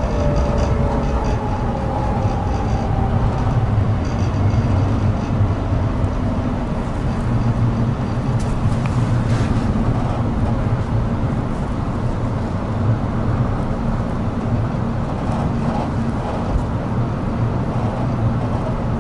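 Inside an 800-series Shinkansen slowing into a station: a steady low rumble from the running train. In the first few seconds the falling whine of the electric traction motors slides down and fades out as it brakes.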